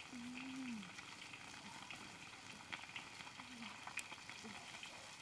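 Food frying and sizzling in a wok over an open wood fire, with the fire crackling in scattered sharp pops. A short, low, pitch-falling animal call comes near the start, with a few briefer ones later.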